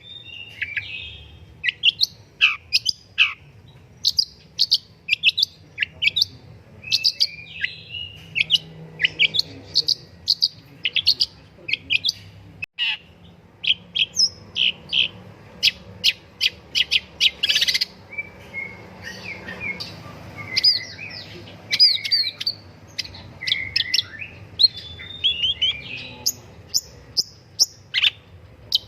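Long-tailed shrike (pentet) singing without pause: a fast run of sharp, high chips and short down-slurred whistles, broken by a few harsher scratchy notes.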